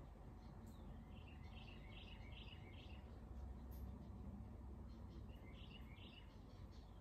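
Faint bird chirping, in two short runs of quick chirps, over quiet room tone.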